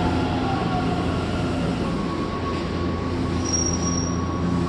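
Odakyu electric commuter train braking to a stop on a sharply curved platform. A whine falls in pitch in the first second over a steady rumble, a steady hum sets in, and a brief high squeal comes near the end.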